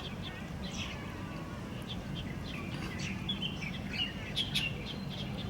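Birds chirping: a scattered run of short, high chirps, busiest a few seconds in, over a steady low background rumble.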